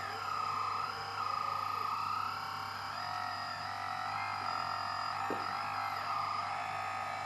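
Whine of the electric hydraulic pump of an RC model construction machine, a tone with several overtones that dips and rises in pitch several times as the load on the hydraulics changes.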